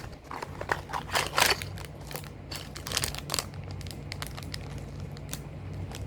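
Packaging being handled in an unboxing, crinkling and rustling in irregular bursts, loudest about a second in and again about three seconds in, over a low steady hum.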